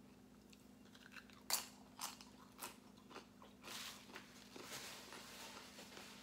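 Tortilla chip crunched and chewed, with a few sharp crunches about a second and a half in, followed by a soft rustle of a paper napkin.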